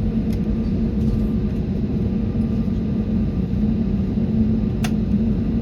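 Boeing 737 engines and cabin noise heard from inside the cabin: a steady rumble with a constant low hum, and a brief click about five seconds in.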